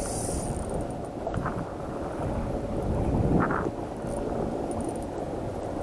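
Wind buffeting the microphone over water around a kayak: a steady low rumble that swells briefly about three seconds in.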